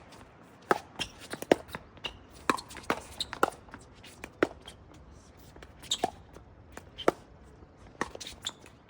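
Pickleball rally: sharp pops of paddles striking the hollow plastic ball, with the ball bouncing on the court, a dozen or so hits at an uneven pace of roughly one every half second to a second.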